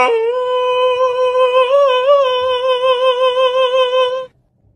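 Cat's long drawn-out meow: one loud held note, steady in pitch with a slight waver, that cuts off after about four seconds.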